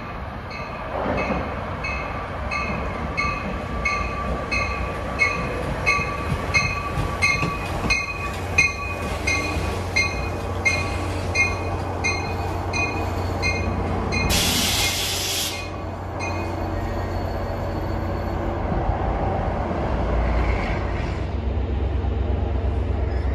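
A train at a station platform, its bell ringing rapidly at about two to three strikes a second over a low engine drone. The bell stops about 16 seconds in. A loud, sharp air hiss lasting about a second and a half comes just before it stops.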